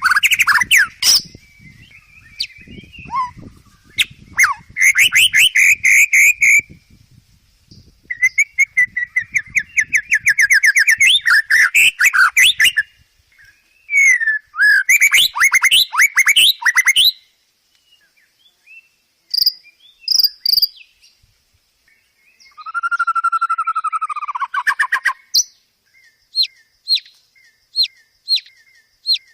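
A songbird singing a string of varied phrases: fast loud trills and whistled notes broken by short pauses, ending in a run of short sharp repeated notes that quickens near the end.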